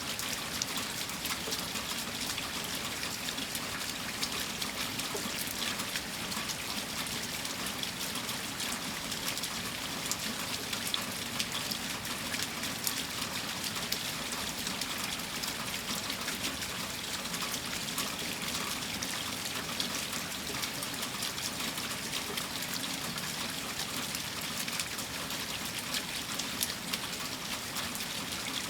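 Steady rain: a constant hiss with many small drop ticks scattered through it.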